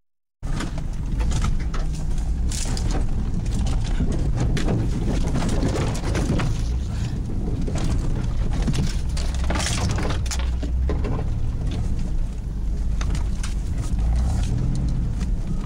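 GMC Jimmy driving on a snowy trail: engine running under a steady low rumble, with scattered knocks and rattles from the truck as it bumps along. The sound drops out for a split second at the very start.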